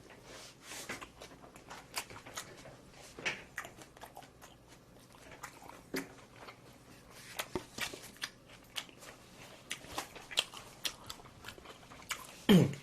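Close-miked chewing and biting of food: irregular wet clicks and small crunches in the mouth. Near the end a brief voiced hum falls in pitch.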